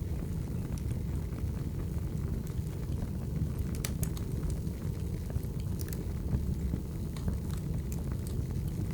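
Firewood burning, with a steady low rumble of the flames and scattered sharp crackles and pops, a few louder ones around the middle.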